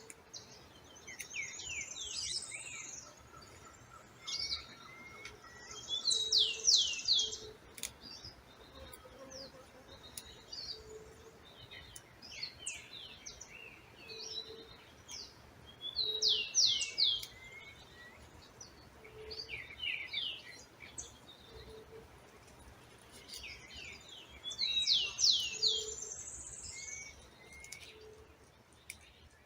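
Songbirds singing: one bird repeats a short burst of quick, high sweeping notes every few seconds, with other chirps between and a soft, lower note recurring underneath.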